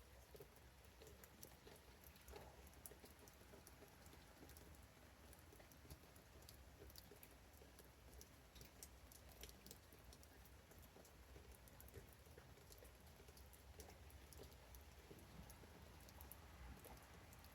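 Faint patter of light rain: scattered, irregular drops ticking softly.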